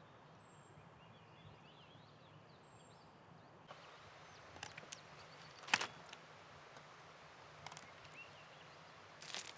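Faint birdsong, small birds chirping over a still, quiet background. Several short sharp knocks join in from about halfway, the loudest a little before six seconds in.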